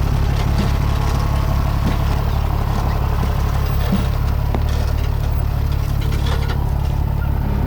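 Truck engine idling, a steady low drone.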